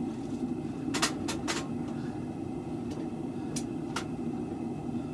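Forge running steadily, with a few sharp metallic clinks of tongs being handled: three about a second in and two more just before the end.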